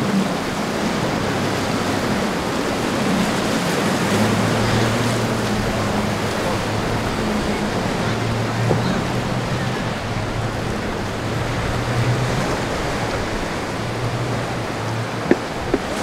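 Rushing surf and wind noise with the low, steady drone of boat engines underneath. The drone's pitch drops about four seconds in, and there is a single sharp tick near the end.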